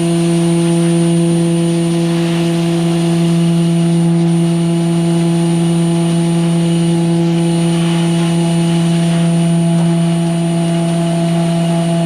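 Concrete mixer truck's diesel engine running steadily at constant speed, a loud even hum that holds the same pitch throughout.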